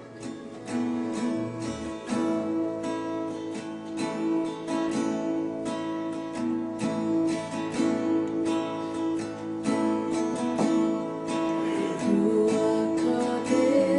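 Music: acoustic guitar strumming the instrumental introduction of a song.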